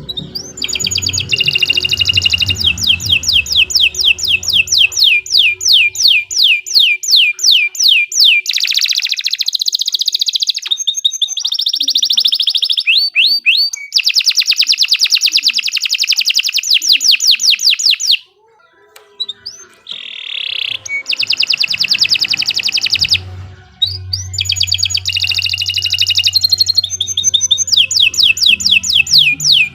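Domestic canary singing a long, loud song of fast, evenly repeated trills and rolls, breaking off briefly about two-thirds of the way through before starting again.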